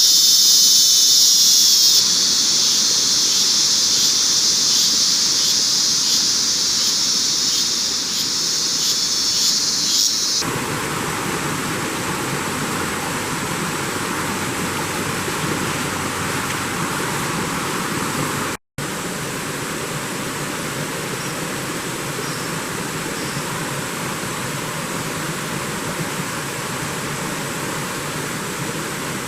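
Loud, high, pulsing insect buzz, typical of a cicada chorus, which cuts off abruptly about ten seconds in and gives way to a steady rushing noise like wind or running water. The rushing breaks off for an instant about two-thirds of the way through.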